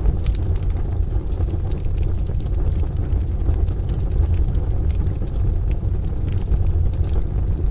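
A wood stove fire crackling, with scattered sharp pops, over a steady low rumble of rain and distant thunder.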